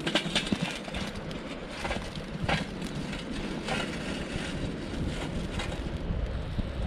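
Steady rushing of a mountain river, with scattered light clicks and knocks over it.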